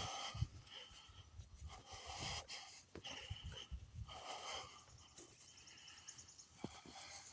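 A hiker walking, with footfalls and breathing close to the microphone in soft, repeated puffs about once a second. A short, rapid high bird trill comes about five seconds in.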